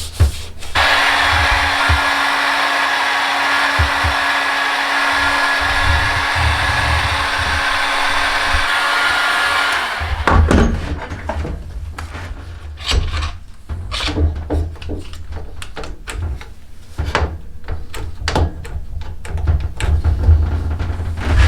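A small electric blower motor whirs steadily with a hum for about nine seconds, then cuts off. It is followed by irregular knocks and short scraping strokes of hand tools working wood.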